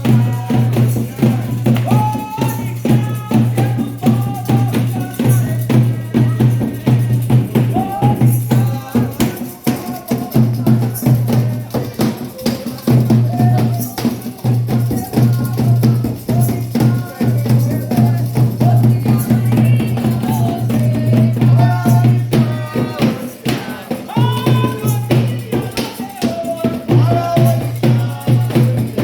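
Candomblé ritual music: continuous fast percussion of drums and rattles, with voices singing over it.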